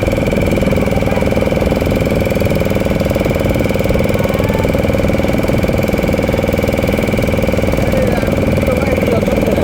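Motor boat's engine running steadily at a constant speed, a loud, even drone with a low rumble.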